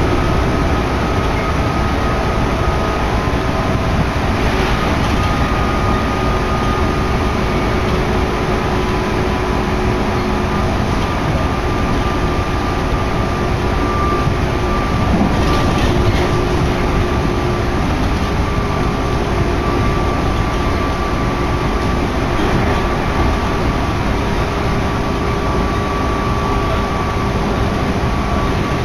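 Shin'etsu Line electric train running, heard from inside the carriage: a steady rumble of wheels and motors with a faint held whine over it.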